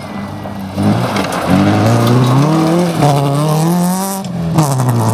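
Fiat Cinquecento rally car's engine revving hard under full acceleration. Its pitch climbs, drops at a gear change about three seconds in, climbs again and drops at a second shift, then holds steady.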